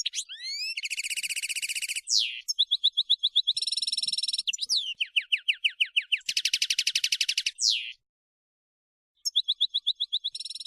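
European goldfinch song: a fast, varied run of high trills, rapid repeated notes and quick sweeping notes. It breaks off about eight seconds in and resumes just after nine.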